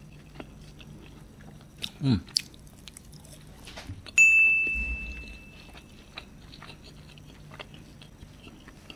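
Close-up chewing of beef kerutuk: soft wet mouth clicks and smacks as he works through meat that is a bit tough. About two seconds in a short low hum falls in pitch, and about four seconds in a sudden ringing tone, the loudest sound, fades away over under two seconds.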